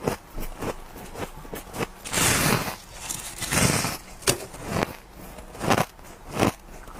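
A person biting and crunching ice close to the microphone: a run of sharp cracking bites about every half second, with two longer grinding crunches around two and three and a half seconds in.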